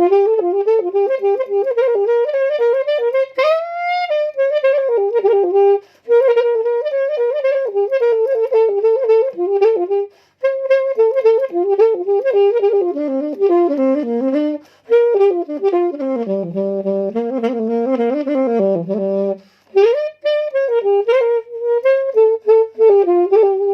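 Unaccompanied saxophone playing a lam ploen riff, the Thai Isan molam style, as one line of quick ornamented notes broken by short breath pauses. About four seconds in there is a swooping upward bend, and the line dips to lower notes before climbing back near the end.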